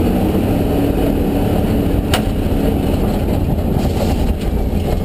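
Ford Mustang rally car's engine running steadily at speed, heard from inside the cabin along with road noise, with a single sharp click about two seconds in.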